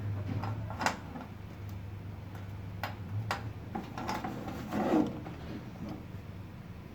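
Scattered sharp clicks and small knocks, with a fuller knock about five seconds in, from tools and parts being handled on a workbench during motherboard capacitor replacement, over a low steady electrical hum.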